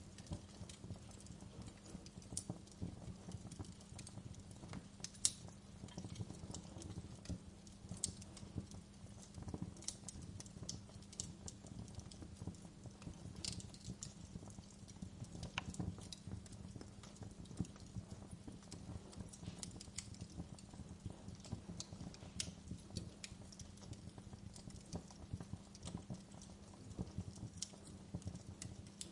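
Wood fire crackling, with sharp pops and snaps at irregular intervals over a steady low rumble of burning.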